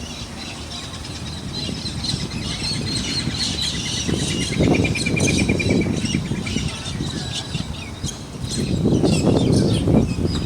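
Many birds chirping and squawking, with a fast, even trill from one bird a few seconds in. A low rumbling noise swells twice underneath.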